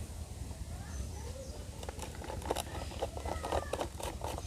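Faint clicks and taps of a screwdriver and small plastic toy-truck parts being handled while screws are tightened. A few short gliding calls sound in the background around the middle.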